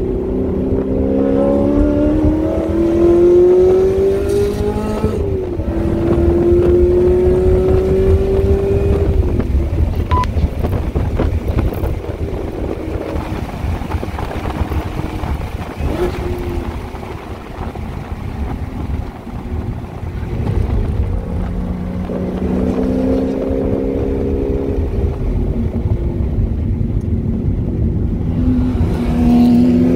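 Chevrolet Camaro ZL1 1LE's supercharged 6.2-litre V8 heard from inside the cabin, rising in pitch under acceleration, with an upshift about five seconds in. Through the middle the engine fades under heavy wind noise at high speed. Near the end it climbs in pitch again out of a slow corner.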